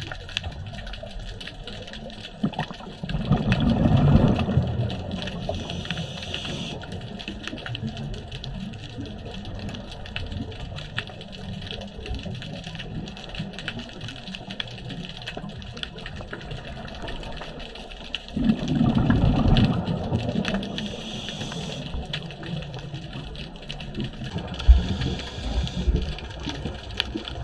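Scuba diver breathing through a regulator underwater: two long, bubbly exhalations about fifteen seconds apart, each followed by the hiss of the next breath drawn in.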